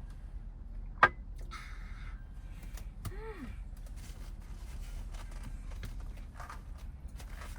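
Handling noises in a small room: one sharp click about a second in, then rustling and scattered small clicks, with a short rising-and-falling squeak or murmur about three seconds in, over a steady low hum.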